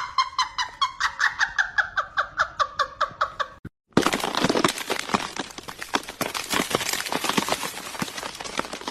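A fast run of short, pitched animal calls, about seven a second, easing slightly down in pitch. After a brief break there is a noisy clatter of many sharp clicks and rustles.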